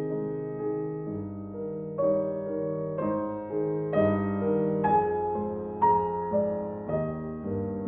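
Calm solo piano music: chords over a bass line, with new notes struck about once a second and left to ring.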